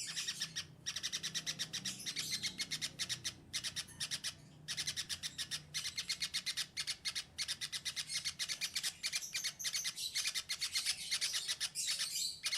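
Small birds chattering: a dense run of quick, high chirps, many a second, broken by a few short pauses, the longest about four seconds in.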